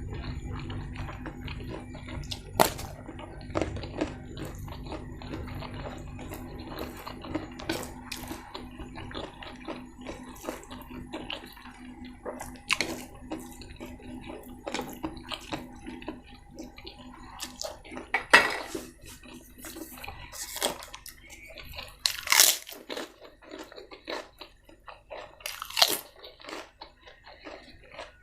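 A person eating close to the microphone: chewing with sharp crunches every few seconds, over a steady low hum that drops away about 22 seconds in.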